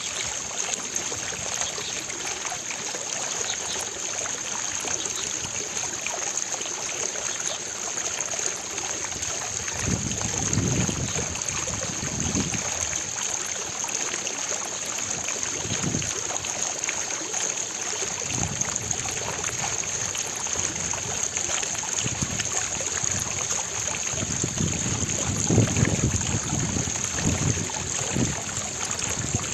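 Water fountain splashing in a steady rush of falling water. A few deeper low surges swell up through it, the strongest near the end.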